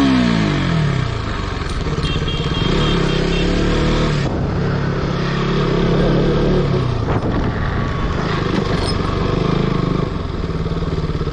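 KTM RC 200's single-cylinder engine running as the motorcycle is ridden, its revs falling away in the first second and then holding fairly steady, over a continuous rushing noise.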